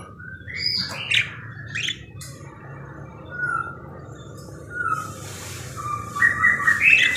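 Budgerigar chirping and warbling: a string of short chirps and squawky notes that glide up and down, busiest and loudest near the end.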